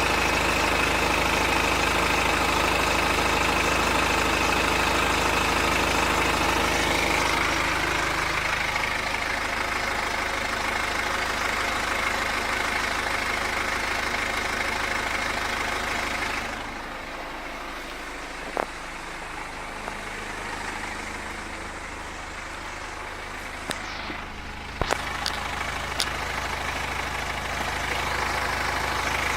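BMW X3 F25 2.0-litre N47 diesel idling with a strange noise that the owner suspects is the timing chain. The steady engine sound gets quieter about a third of the way in and again around the middle, and a few sharp clicks come in the second half.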